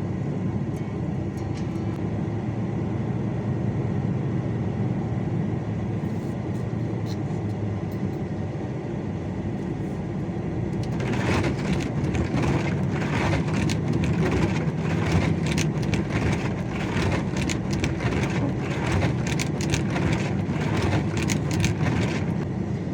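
A vehicle's engine running with a steady low rumble. About eleven seconds in, a rougher, louder noise joins it, full of quick knocks and rattles.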